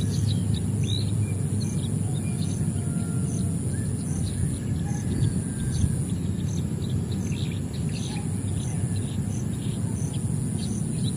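Small birds chirping in many short, scattered calls, over a steady high-pitched whine that pulses about one and a half times a second and a continuous low rumble.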